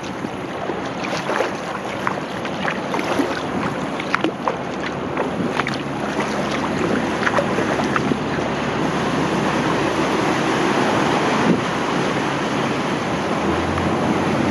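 Kayak paddle splashing and dripping water as it strokes, with scattered short splashes over a steady rush of water and wind buffeting the microphone.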